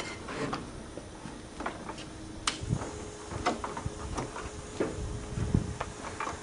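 Scattered mechanical clicks, knocks and a few dull thuds, with a faint steady hum in the middle; no engine running yet.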